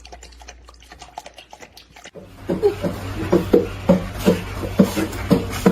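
Faint scattered clicks, then, about two seconds in, a rapid run of short pitched animal sounds, a few a second, over a steady hum.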